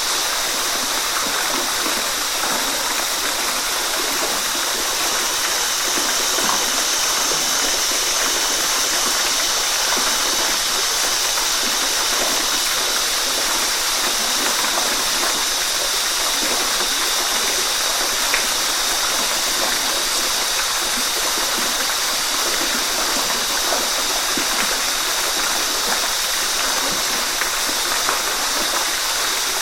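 Waterfall: water falling steadily without a break, heard as an even noise that is strongest in a high hiss.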